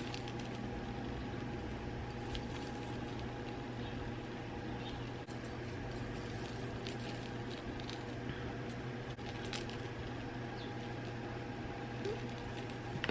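Bracelets clinking and jingling faintly as they are handled and unpacked: small scattered clicks over a steady low background hum, with one sharp tap at the very end.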